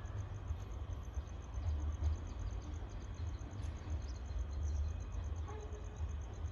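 An insect, likely a cricket, chirping in a steady, fast, high-pitched pulse, several chirps a second, over a low, uneven rumble.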